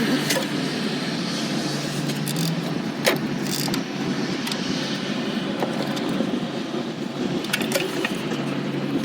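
Metal clinks and taps of hand tools and parts, the sharpest about three seconds in, over a steady low mechanical hum.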